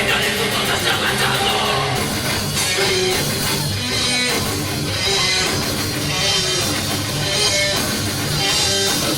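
A rock band playing live: distorted electric guitars with bass and drum kit.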